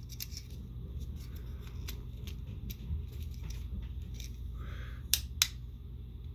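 Small plastic clicks and taps as the parts of a Transformers Siege Skytread action figure are handled and pressed together, the last part not pegging in all the way. There are two sharper clicks about five seconds in.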